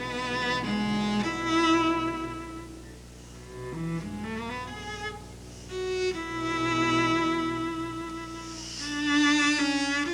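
Cello playing a slow solo passage of long, sustained notes with vibrato, with other bowed strings accompanying.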